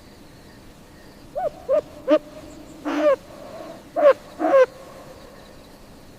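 Owl hooting: six short hoots, three quick ones, a longer one about three seconds in, then two more.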